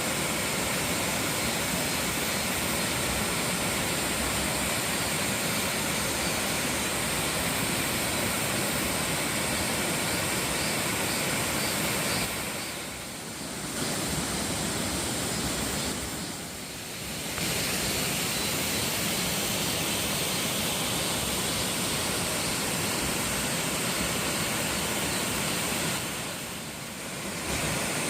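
A waterfall pouring, a steady rush of falling water that briefly drops away three times.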